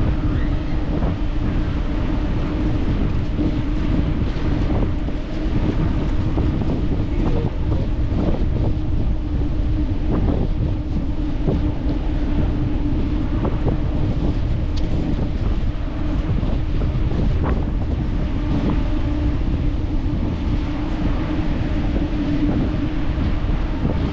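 Wind buffeting the microphone of a camera riding on a moving bicycle, with rolling tyre rumble, a steady low hum and now and then a small knock from bumps in the path.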